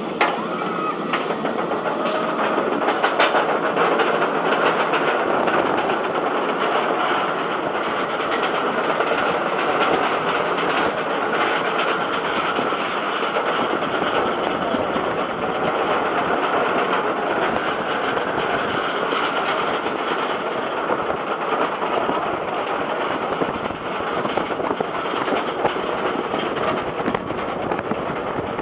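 Roller coaster train running along its track, heard from a rider's seat: a steady rush with rattling.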